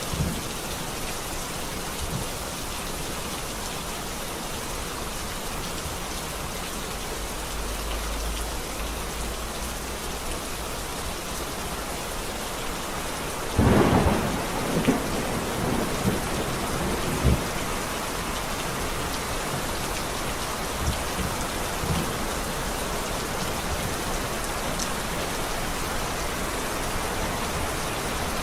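Steady heavy rain with thunder: a low rumble building up, then about halfway through a sharp, loud thunderclap followed by a few seconds of rumbling crackles, with the rain going on throughout.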